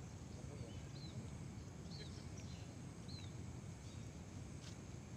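A bird chirping, short high calls about once a second, over a faint steady low outdoor rumble.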